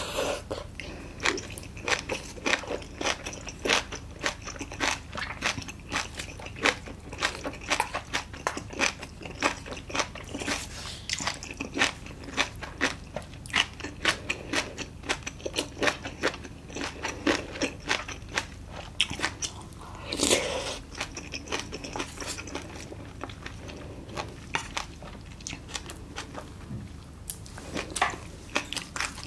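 Close-miked chewing of spicy agujjim, braised monkfish with bean sprouts, with many crisp crunches several times a second. A louder, longer sound comes about twenty seconds in.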